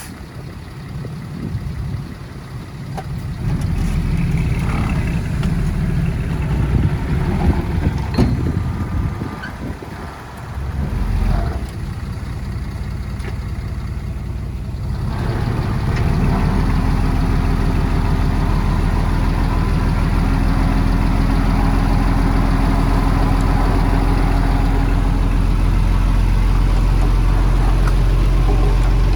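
Heavy equipment diesel engine working, uneven at first with a brief dip about ten seconds in. From about halfway it runs louder and steady.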